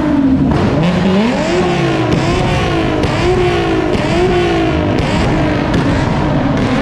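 A car engine with a loud exhaust, revved hard again and again: its pitch climbs and drops about five or six times.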